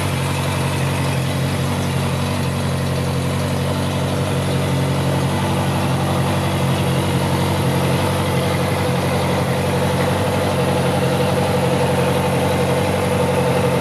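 Honda CB650F inline-four motorcycle engine idling steadily.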